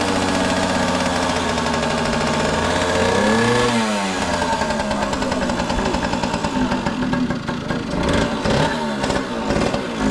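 Motorbike engine running, revved up and back down about three to four seconds in, then running with a rapid, uneven pulse.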